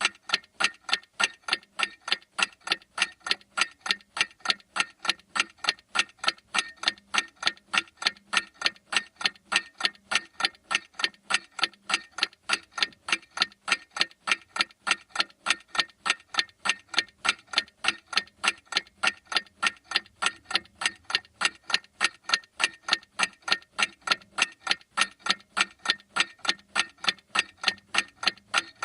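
Clock ticking steadily: sharp, evenly spaced ticks, several a second, that never change in pace or loudness.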